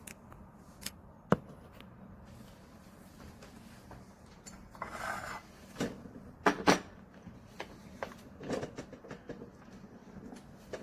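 Hard objects being handled: scattered sharp clicks and knocks with some rubbing, the loudest knocks about a second in and twice in quick succession around six and a half seconds in, and a short hiss about five seconds in.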